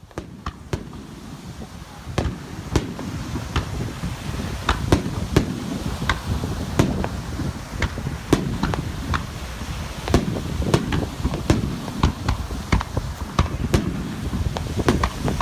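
Fireworks display: a dense, continuous string of sharp cracks, several a second, over a low rumble of bursting shells, getting louder about two seconds in.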